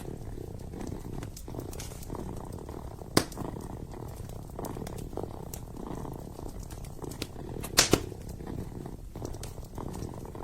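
Kitten purring steadily, with the sharp crackles and pops of a wood fire, the loudest pops about three seconds in and a close pair near eight seconds.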